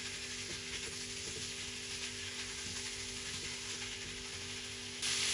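Minced meat and chopped onions sizzling steadily in a frying pan as they are stirred with a silicone spatula. The sizzle jumps noticeably louder just before the end.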